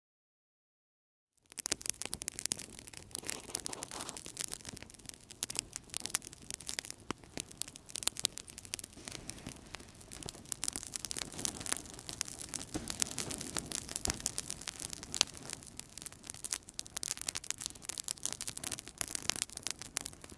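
Outdoor campfire crackling: dense, irregular sharp pops and snaps over a soft hiss, starting after about a second and a half of dead silence.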